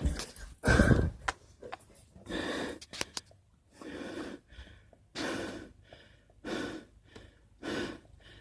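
A person breathing heavily in deep gasps, a breath a little more than every second.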